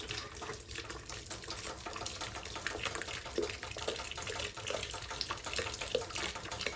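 Water running steadily out of an opened valve on a heating boiler, flushing mud and scale out of the blocked water-level glass tube line.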